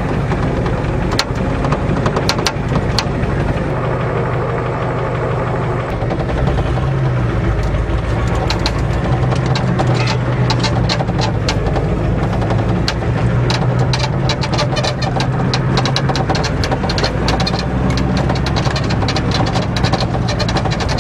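Ford diesel truck engine running steadily while the truck drives slowly, heard from inside the cab, with frequent clicks and rattles from the bouncing cab.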